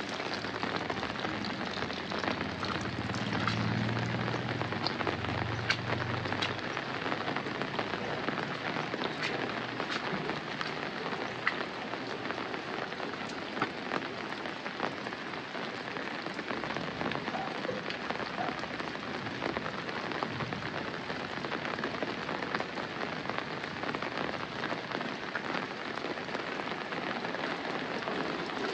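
Steady rain falling, an even hiss with scattered sharp taps of single drops.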